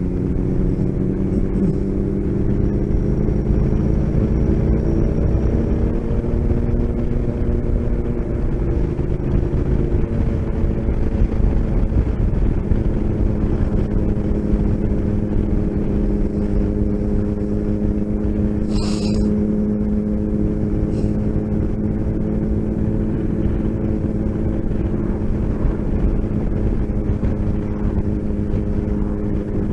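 Motorcycle engine running at a steady cruise with road and wind rumble; its pitch shifts over the first several seconds, then holds steady. A single short click about nineteen seconds in.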